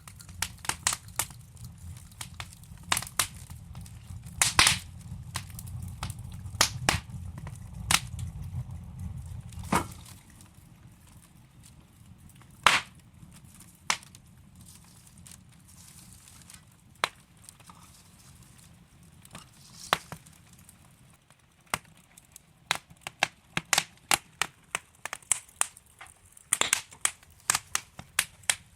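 Burning logs in a fireplace crackling and popping in sharp irregular snaps, with a low rumble of the flames in the first ten seconds or so that then dies down; the pops come thick and fast near the end.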